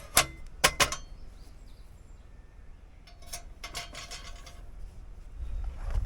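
Several sharp knocks and clatters, three close together near the start and a run of lighter clicks midway, with a low rumble rising near the end.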